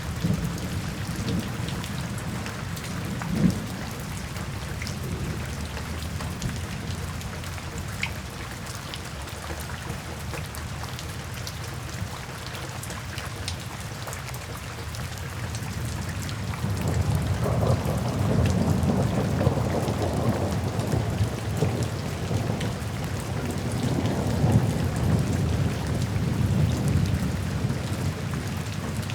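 Steady rain falling, with one sharp tap a few seconds in. Past halfway, low rolling thunder swells up and rumbles on under the rain.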